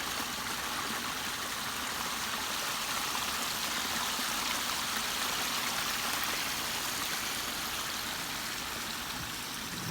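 Water running steadily over the rocks of a small backyard pondless waterfall, an even splashing rush.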